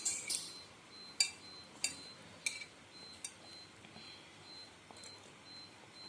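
Cutlery clinking against a bowl while eating noodles: five or six sharp clinks spaced about half a second to a second apart in the first half, then only faint small knocks.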